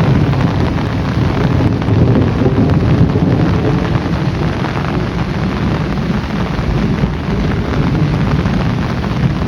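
Heavy rain pouring steadily, with a low rumble of thunder underneath throughout.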